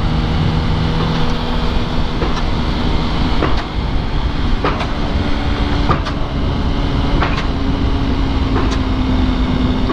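Motorcycle under way: a 2005 Yamaha R1's inline-four engine pulling away, with heavy wind rush on the microphone, plus a few brief sharp knocks.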